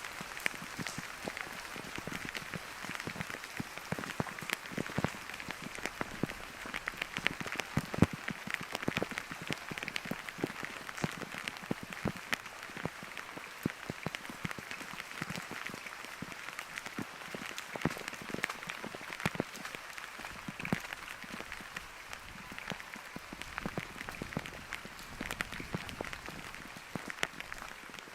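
Steady rain falling, with many sharp, irregular drop hits close by over an even hiss.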